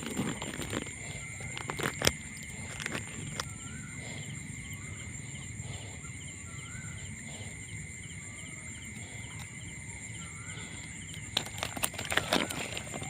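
Animal calls: short chirps repeating every second or so over a steady high-pitched drone and pulsing trill, with a few sharp knocks.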